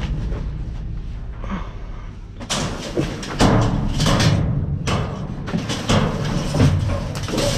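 Junk being handled and rummaged through: a quiet stretch of low rumble, then from about two and a half seconds in a run of irregular knocks, thuds and clatters.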